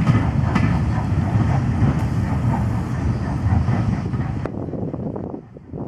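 Passenger coaches of a steam-hauled train rolling past close by, with a heavy low rumble and wheels knocking over the rail joints. The sound thins out suddenly about four and a half seconds in, as the last coach draws away.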